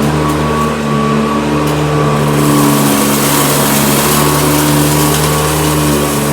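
Hoover Decade 80 upright vacuum cleaner running on carpet: a steady motor hum with a hiss that grows louder about two seconds in.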